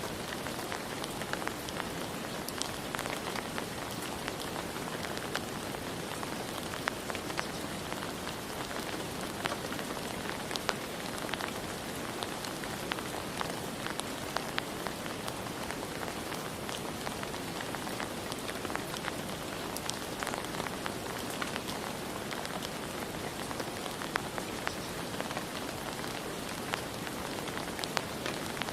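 Steady rain falling, a dense even hiss with many individual drops ticking sharply on a hard surface throughout.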